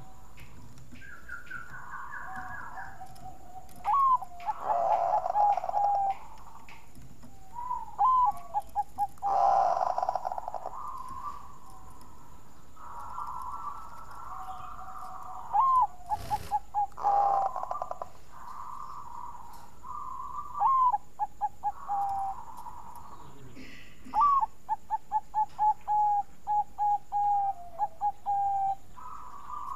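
Zebra dove (perkutut, Bangkok song type) cooing: about five song phrases. Each is a short rising note followed by a run of quick, clipped coos that slide slightly downward, the longest run near the end.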